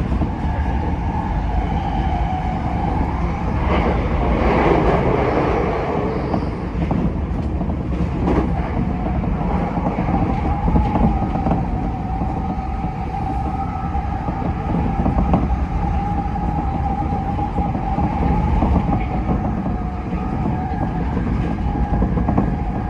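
Tokyo Metro 10000 series train running at speed, heard from inside the car: a steady rumble of wheels on track with a steady whine, and a brief louder rush about four seconds in.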